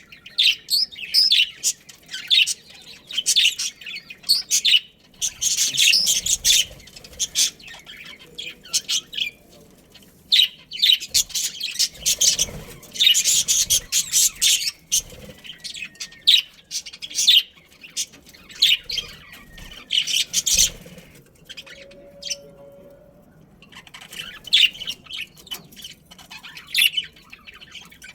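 Budgerigars chirping and chattering in quick, irregular bursts, with a short lull about three quarters of the way through.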